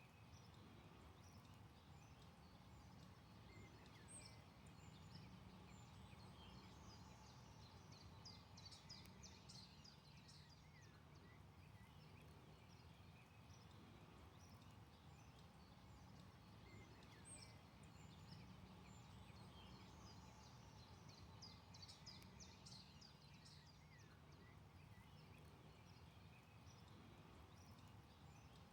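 Faint birdsong: two stretches of quick, high chirping, one a few seconds in and one past the middle, with scattered single calls between, over a low steady hum.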